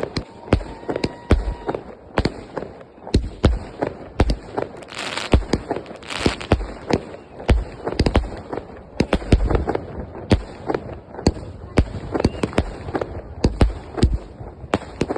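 Fireworks and firecrackers going off in a rapid, irregular string of sharp bangs and pops, several a second, with two short hissing bursts about five and six seconds in.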